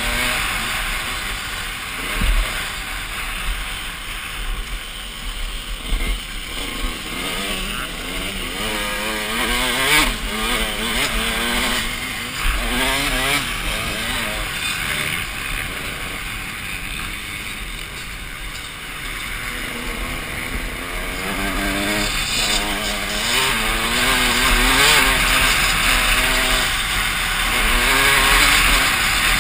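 Motocross bike engine revving hard, its pitch climbing and dropping again and again through throttle and gear changes, under heavy wind noise on the helmet-mounted microphone, with a few sharp knocks.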